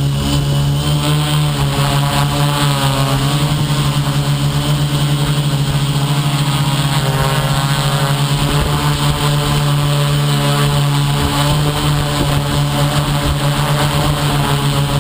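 Electric motor and propeller of an FPV model aircraft running in flight, a steady loud hum whose pitch wavers slightly in places.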